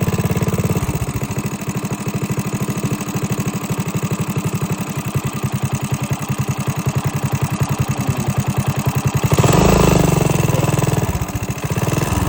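Minibike's small engine running steadily with an even firing beat, then revving up louder about nine and a half seconds in.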